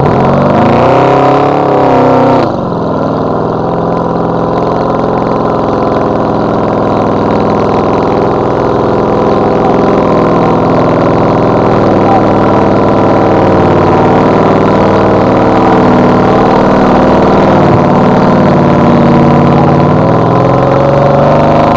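Off-road competition truck's engine revving hard and running under load. Its pitch climbs in the first couple of seconds, then holds a steady note with small rises and falls.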